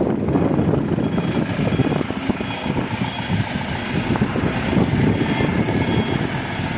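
Heavy earthmoving machinery's diesel engine running steadily under work.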